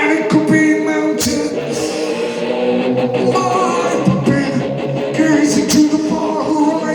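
Live rock band playing: electric guitars and drums, with singing.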